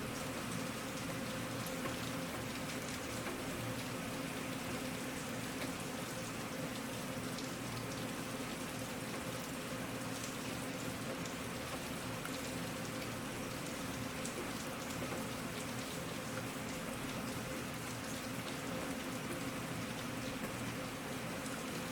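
Steady rainfall: an even hiss of many drops striking a surface, with scattered small drop ticks.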